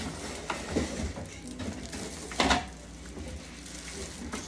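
Handling noise of juicer parts and packaging being lifted out of the box: irregular light knocks and rustling, with one louder knock about two and a half seconds in.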